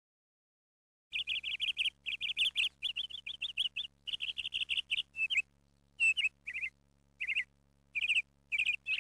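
A small bird chirping in quick runs of high chirps with short pauses between runs, starting about a second in after complete silence.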